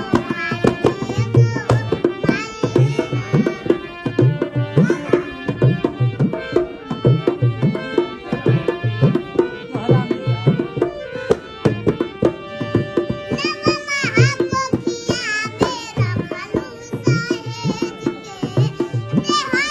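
Indian song with a tabla keeping a steady beat under a young girl's singing voice, its melody wavering and ornamented. The voice stands out most about two-thirds of the way through.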